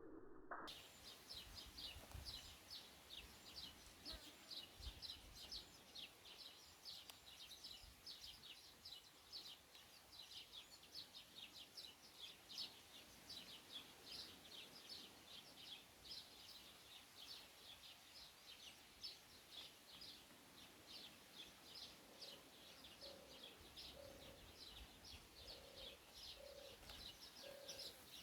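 Small songbirds chirping faintly and continuously in quick high twitters, about three a second. A short run of low notes joins in near the end.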